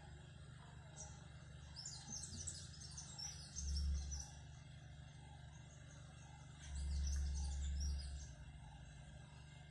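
Small birds chirping in two flurries of quick high chirps, over a steady low background hum. Brief low rumbles about four seconds in and again near seven to eight seconds are the loudest sounds.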